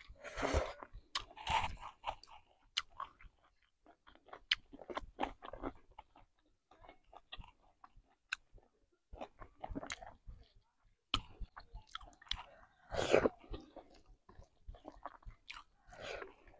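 Close-miked chewing and wet mouth clicks of a person eating masala chicken and rice by hand, irregular, louder near the start and again about thirteen seconds in.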